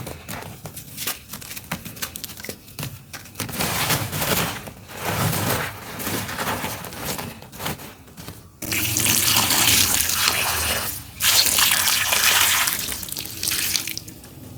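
Dry, crunchy dirt crumbling in a series of quick crackling breaks, then spilling in two steady streams that each start suddenly, the first about halfway through.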